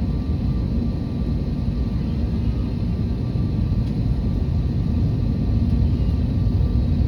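Airbus A321neo jet airliner engines: a steady low rumble with a few faint steady tones above it, growing slightly louder.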